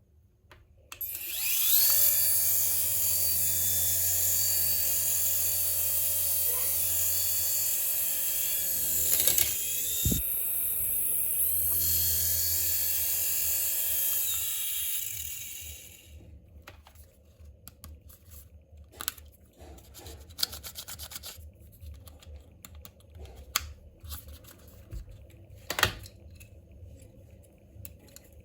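Miniature RC toy helicopter's electric motor and rotor running with a high-pitched whine. It spins up about a second in, holds steady, and winds down at about 15 s, followed by scattered light clicks and handling rustles.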